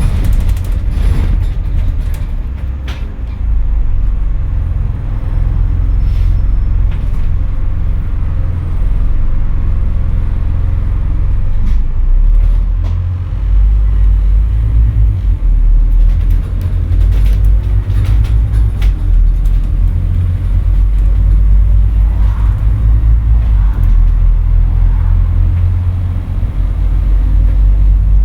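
Scania N230UD double-decker bus engine pulling hard, a loud, deep drone heard from on board, with rattles. The drone dips briefly a few times.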